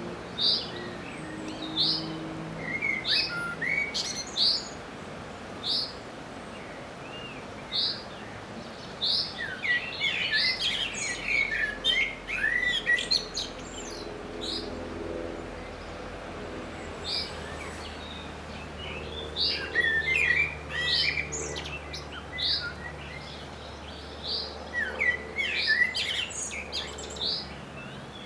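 Songbirds calling: a short high note repeated about once a second, broken by bursts of rapid twittering song.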